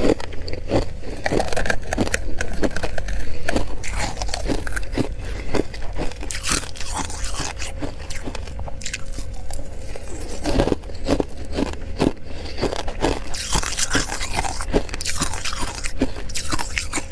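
A person biting into and chewing crystallized frost from a humidifier, a long run of crisp, irregular crunches.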